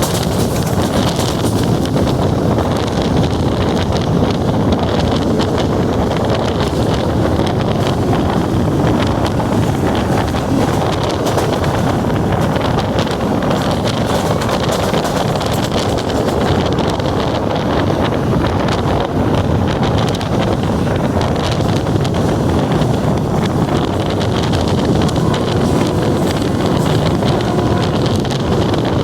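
Steady running noise of a Pakistan Railways Green Line passenger train in motion heard on board, with wind rushing over the microphone.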